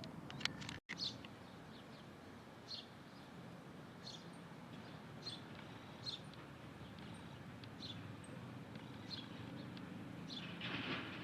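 A bird calling with short, single high chirps repeated about once a second, over a low steady background rumble; near the end a brief louder rustling noise rises.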